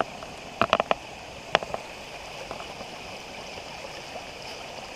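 Spring-fed creek water running steadily over rocks, a constant rushing. A few short sharp clicks come just under a second in, and one more about a second and a half in.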